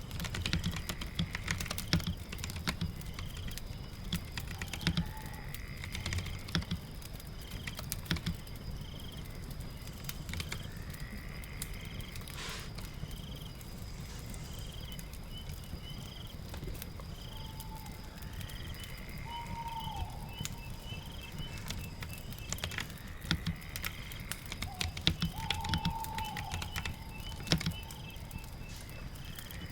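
Typing on a keyboard: irregular keystroke clicks in short runs, over a steady background of rain and crackling fire.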